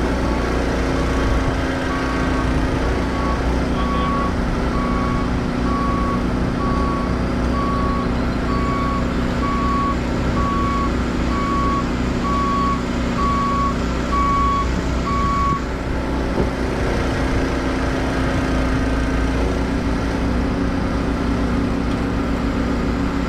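A heavy-equipment backup alarm beeping at a steady single pitch about once a second over the steady drone of a diesel machine's engine; the beeping stops about two-thirds of the way through while the engine keeps running.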